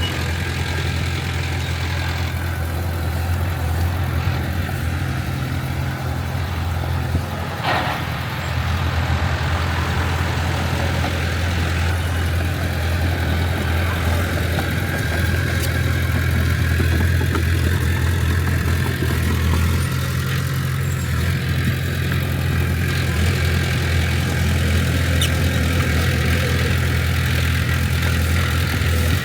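Bulldozer's diesel engine running steadily with a deep, even hum, with one brief sharp knock about eight seconds in.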